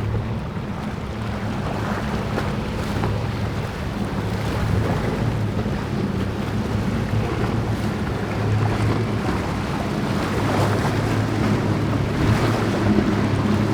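Motorboat engines running with a steady low hum, over the wash of waves and wind buffeting the microphone.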